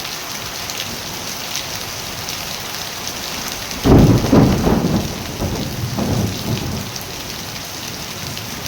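Steady rain falling, with a sudden low rumble of thunder about four seconds in that rolls on in several swells and fades over about three seconds.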